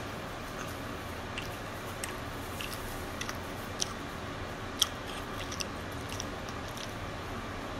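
A person chewing a mouthful of grilled cheese sandwich on crisp-toasted bread, with scattered small crunches, the sharpest about five seconds in.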